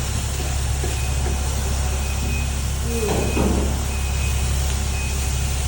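A steady, loud low machine hum runs throughout, with a faint high beep repeating about twice a second. A brief voice comes in about three seconds in.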